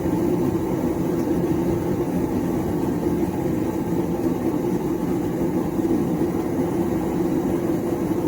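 Small gas forge burning steadily: a constant low rumble from the burner with a hum in it.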